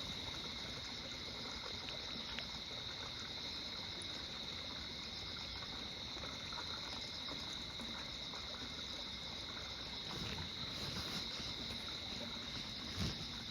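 Insects chirring steadily in a high, even band, over a faint low background hiss.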